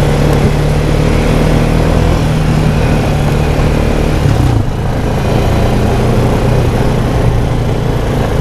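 Small off-road vehicle's engine running steadily while riding along a rough trail; about halfway through the engine note drops slightly and the level dips for a moment, as when easing off the throttle, then steady running resumes.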